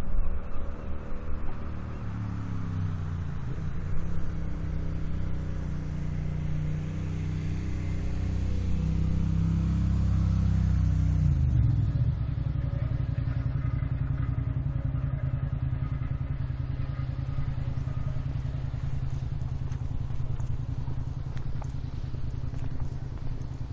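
An engine running close by, its pitch and loudness climbing slowly over the first half. About halfway through it drops into a steady low throb.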